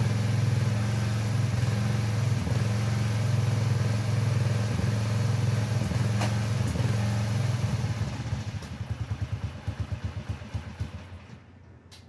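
Small engine of an old Craftsman garden tractor running steadily, then shut off about eight seconds in: its firing slows to separate beats and it stops about three seconds later.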